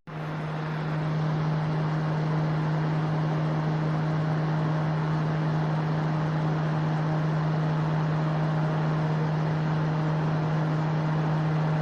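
Mini air conditioner's fan running steadily: an even rush of air with a constant low hum, coming up to full level in about the first second.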